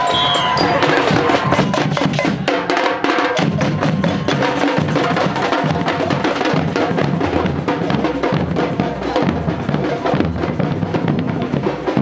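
Parade marching band playing: drums beating a dense, steady rhythm, with some held pitched notes above.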